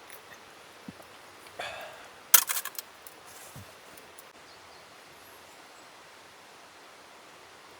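Tableware being handled while eating: a short scrape, then a quick cluster of sharp clinks about two and a half seconds in, followed by faint rustles over a steady soft outdoor hiss.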